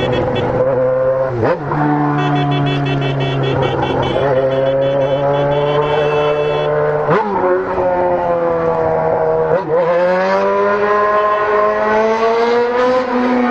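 Sport motorcycle engine pulling hard through the gears, its pitch climbing and then dropping sharply at each of about three upshifts.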